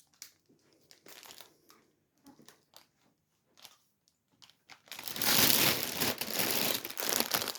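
Packaging of a cross-stitch kit crinkling as it is handled: scattered faint rustles at first, then louder continuous crinkling for about two and a half seconds near the end.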